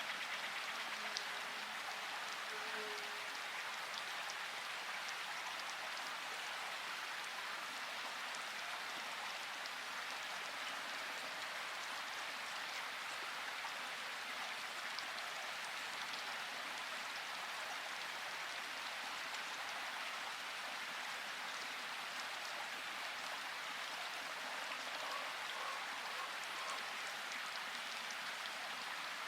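Steady rain falling, with individual drops ticking through a constant hiss. No thunder.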